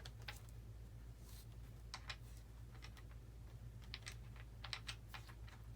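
Faint, scattered light clicks and taps, some in quick pairs, as the model airplane's ESC wire leads and small plastic parts are handled, over a steady low hum.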